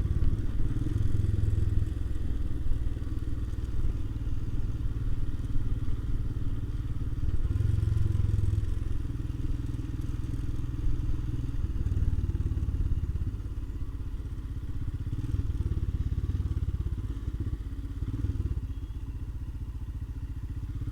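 Royal Enfield Himalayan's single-cylinder engine running while riding, with road and wind noise; the engine swells louder about a second in and again about eight seconds in.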